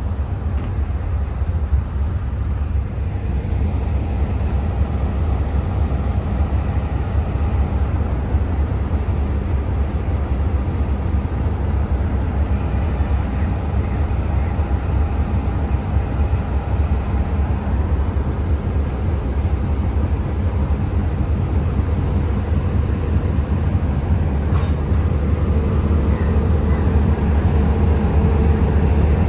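Diesel train locomotive running with a steady low rumble, growing slightly louder near the end.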